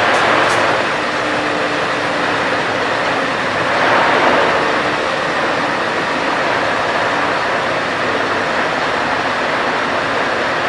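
Heavy trucks' diesel engines running as they drive past, a steady mix of engine hum and road noise. There are a couple of sharp clicks at the very start and a brief louder rush about four seconds in.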